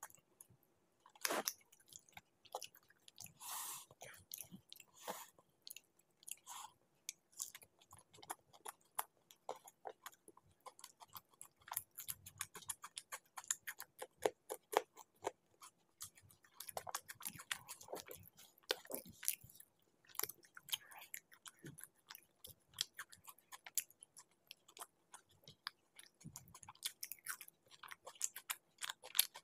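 Close-up chewing and lip-smacking of a person eating laccha paratha dipped in chicken curry gravy by hand: a steady stream of short, sharp mouth clicks.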